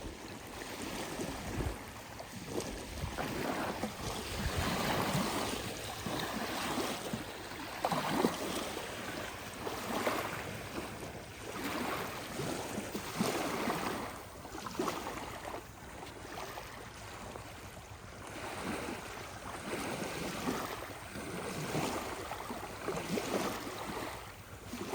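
Seawater sloshing and splashing in repeated surges, every second or two.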